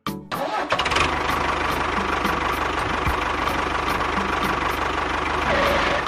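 A small engine starts up and runs steadily with a fast, even pulse, then dies away near the end.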